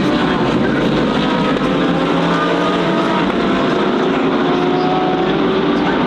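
GT3 race car engines running at speed on track: a steady, dense mix of several engine notes whose pitches slide slowly up and down.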